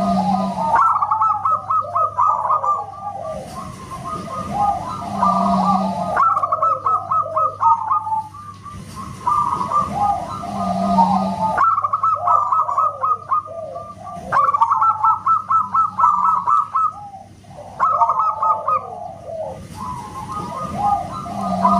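Zebra doves (perkutut) cooing, with many rapid calls overlapping in dense runs broken by short pauses.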